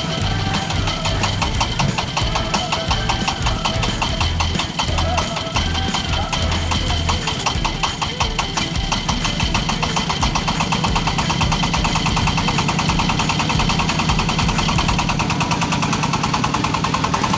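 Single-cylinder-class 22 HP diesel engine of a mini self-loading concrete mixer running steadily, with a fast, even diesel clatter.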